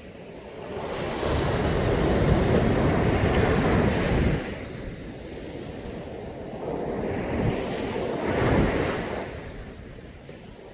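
Caribbean sea waves breaking and washing in on a beach. One large wave surges in about a second in and cuts off sharply around four seconds; a smaller wave rises and falls near the end.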